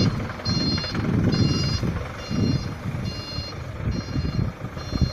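Diesel forklift's reversing alarm beeping steadily, about one beep every 0.85 seconds, over its diesel engine running with a low sound that rises and falls.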